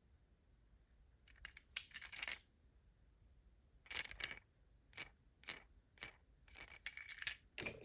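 Light, sharp clicks and clatters of a small wooden toy train coach with metal magnets and wheels being handled and turned over, in scattered groups of a few clicks each, starting after about a second.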